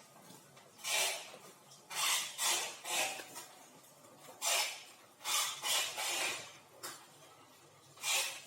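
Short scraping strokes, about ten of them in uneven groups with brief pauses between.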